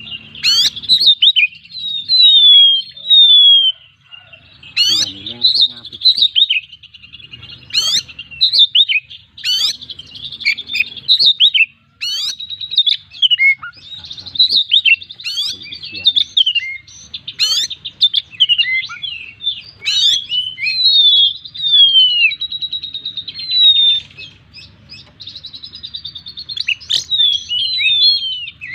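Oriental magpie-robin singing without pause: a fast, varied run of clear whistles, slurred glides and sharp notes, showing the full repertoire of learned and mimicked phrases prized in a 'gacor' bird.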